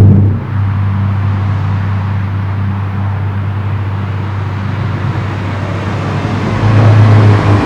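Hyundai i30 N's turbocharged 2.0-litre four-cylinder engine and exhaust running with a steady low drone, easing back about half a second in and growing louder again about a second before the end.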